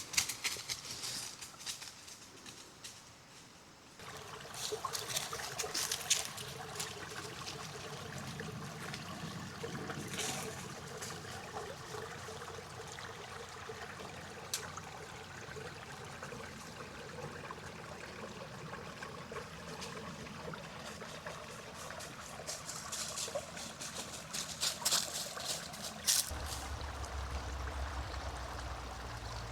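A small forest creek trickling steadily, starting about four seconds in after a quieter moment. A low rumble joins near the end.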